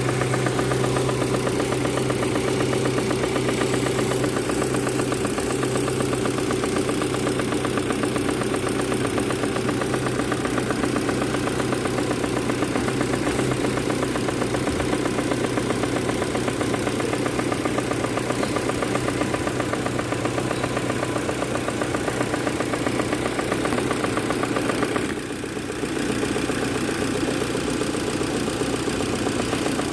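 Proton Campro four-cylinder petrol engine idling steadily, with a brief dip in level about 25 seconds in.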